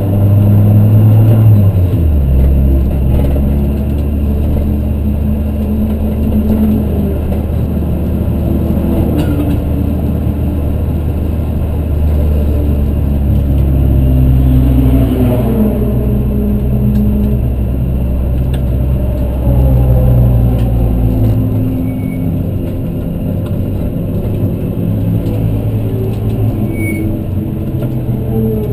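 Supercharged Toyota 4A-GZE 1.6-litre four-cylinder engine, heard from inside the race Corolla's cabin, running at low, fairly steady revs at pit-lane speed, with a few small shifts in pitch.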